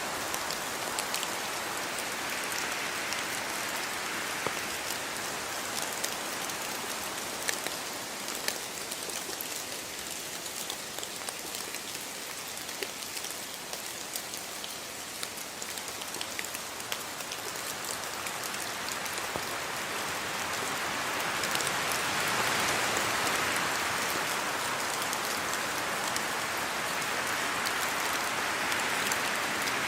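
Steady rain falling, with many individual drops heard as scattered ticks over an even hiss. It eases a little in the middle and grows heavier again about two-thirds of the way in.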